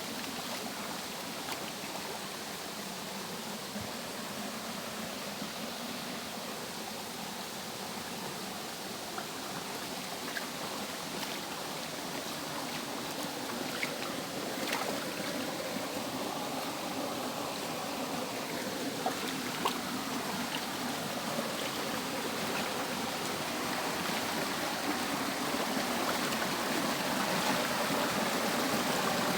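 Water rushing and splashing down a small cascade, a steady rush with occasional small splashes, growing a little louder toward the end.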